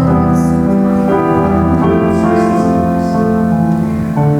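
Piano playing a slow hymn tune in full, sustained chords.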